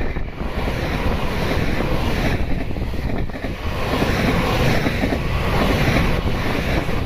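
Tobu 50050-series electric commuter train passing close by at speed: a loud, steady rumble of wheels on rail with wind buffeting the microphone.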